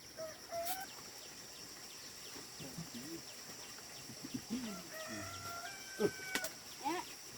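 Chickens clucking with short low calls, and a rooster crowing in one held call about five seconds in. A steady high insect drone runs underneath.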